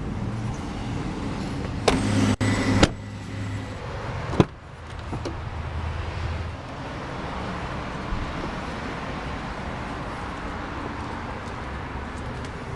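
Van door and interior fittings being handled: a brief clatter about two seconds in, then a single sharp click, over a steady background hum.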